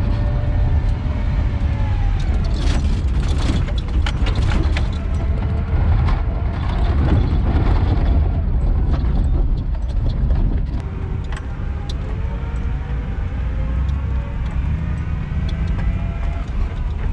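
Stripped 1995 Chevy Silverado's engine revving up and down under throttle while the lightly loaded rear wheels spin and the rear end slides out. A run of sharp clicks and knocks a couple of seconds in.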